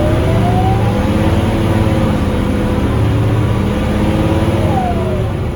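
Scania K230UB city bus's diesel engine and driveline running under way, a steady low rumble with a whine that rises in pitch in the first second and falls again near the end as the bus speeds up and slows.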